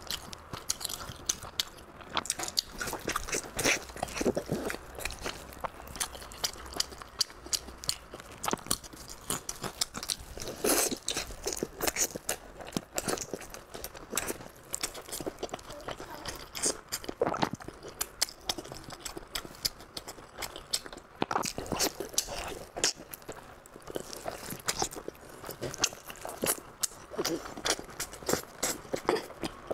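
A person biting and chewing sauce-covered pork close to the microphone: many short, irregular wet clicks and crunches of eating.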